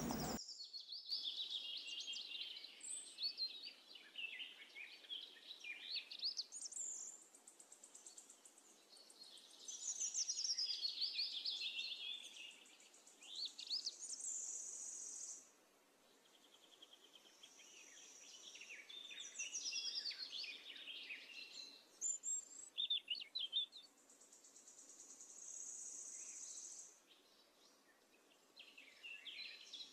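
Faint birdsong: many quick chirps and short trills, coming and going in bouts with short pauses.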